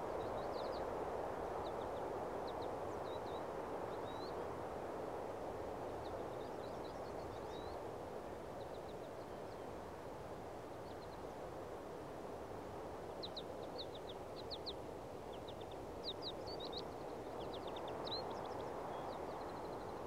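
Small birds chirping in short bursts of quick, high notes, busier in the second half, over a steady background hiss of outdoor ambience.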